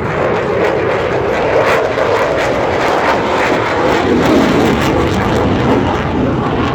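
Loud, steady jet noise from an F-22 Raptor's twin F119 afterburning turbofans as it flies its display.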